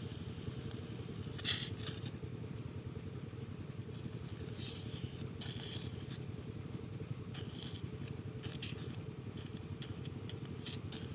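Diesel engine driving a water pump, running steadily with a fast low pulse. Brief scraping and clicking noises come and go over it, the loudest about a second and a half in.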